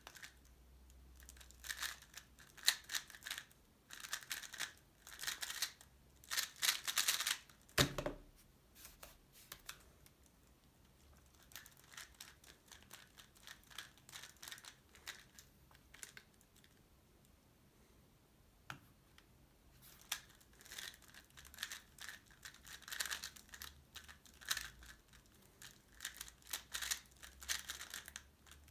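Tornado V3 Pioneer 3x3 speedcube being turned rapidly, its plastic layers clicking and rattling in quick flurries with quieter stretches between. A single sharp knock about eight seconds in.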